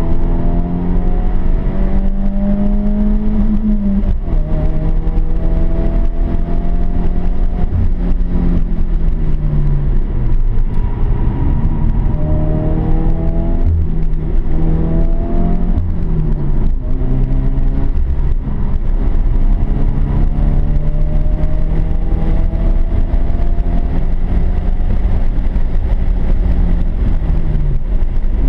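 Subaru Impreza's flat-four engine heard from inside the cabin, driven hard: the revs climb in long sweeps and drop sharply at each upshift, fall away about ten seconds in, then climb again through the gears.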